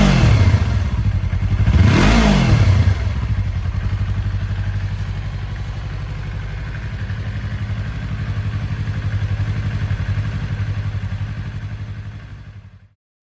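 Yamaha YZF-R25 parallel-twin engine blipped twice, rising and falling in pitch, then settling to a steady idle. The idle fades slightly and stops abruptly near the end.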